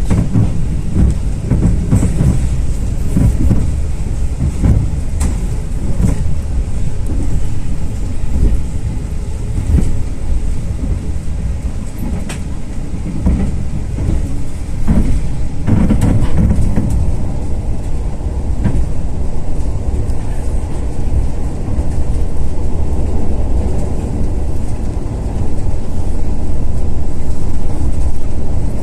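Running noise of the KA Taksaka passenger train heard from inside a carriage: a steady low rumble with scattered clacks of the wheels on the rails.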